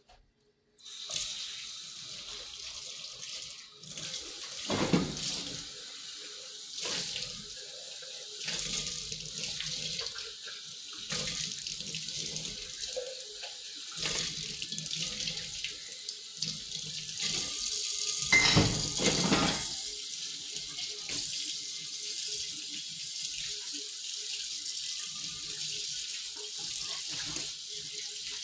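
Water tap running steadily into a sink, starting about a second in, with scattered knocks and clatters in the basin, the loudest about five seconds in and again near eighteen to nineteen seconds.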